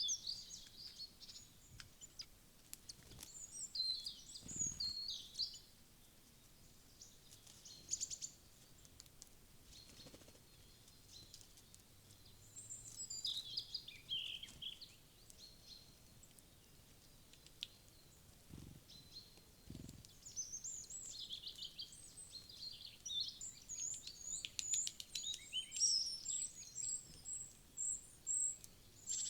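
Small woodland birds chirping and calling in short, high bursts, with quieter gaps between them and the busiest calling in the last third.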